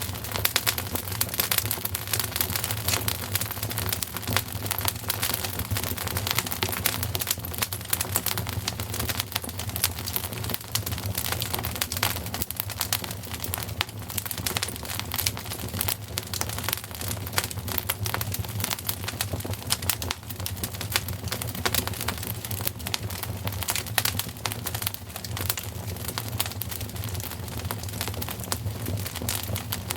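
Wood fire crackling steadily with dense small pops and snaps, over a steady low rumble.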